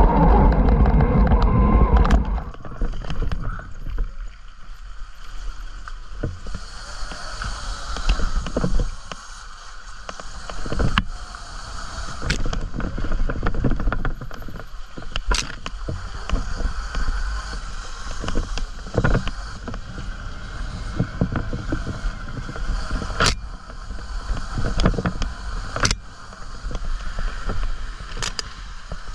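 Off-road bike riding on a muddy trail: a loud rumble for about the first two seconds, then a steadier, quieter running noise broken by scattered sharp knocks as the bike goes over bumps.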